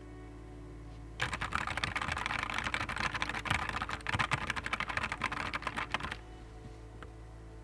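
Fast typing on a Nuphy Air 75 V2 low-profile mechanical keyboard: a rapid run of key clacks for about five seconds that stops abruptly, then a couple of single keystrokes near the end.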